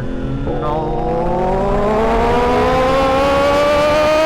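Yamaha R1's inline-four engine accelerating hard through one gear, its pitch rising steadily from about half a second in.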